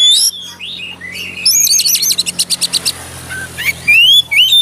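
Oriental magpie-robin (kacer) singing in loud whistled phrases, with a fast run of repeated notes from about a second and a half in and clear rising and falling whistles near the end.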